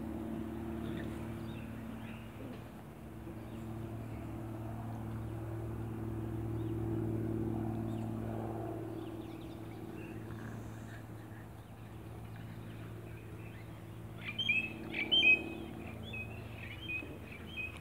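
Bird chirping in a short run of quick, high calls near the end, the loudest sound here, over a steady low hum.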